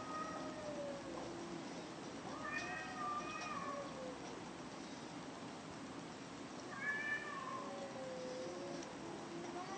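Two cats yowling at each other in a fight standoff: long, wavering, drawn-out calls that rise and fall in pitch, about three of them, with a low continuous growl underneath.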